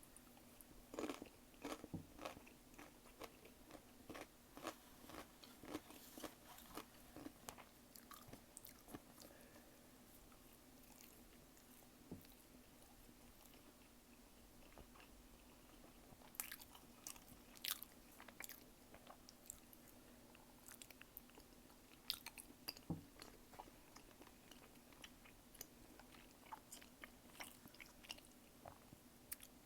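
Close-miked eating of tteokbokki and gimbap: chewing and biting with small sharp wet mouth clicks. The clicks come in clusters, with a sparser stretch in the middle, over a faint steady hum.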